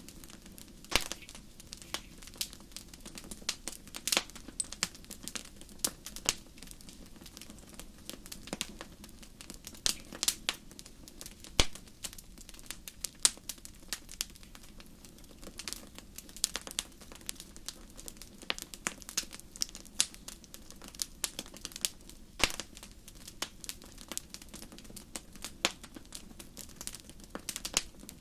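Wood fire crackling in a fireplace: irregular sharp snaps and pops, a few louder ones scattered throughout, over a low steady hiss.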